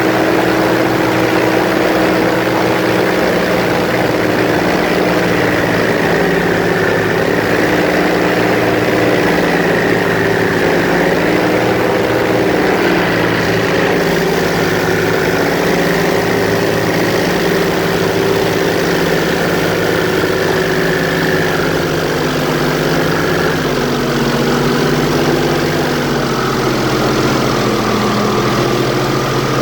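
Airboat's engine and air propeller running steadily under way, the pitch wavering slightly as the throttle shifts.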